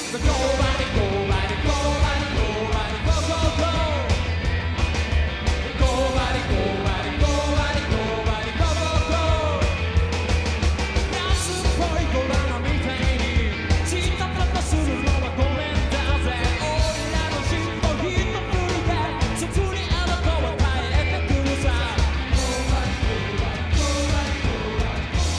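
Rockabilly band playing a rock and roll number with a lead vocal, guitar and a strong, steady bass beat. The music cuts in loud at the start after a brief drop.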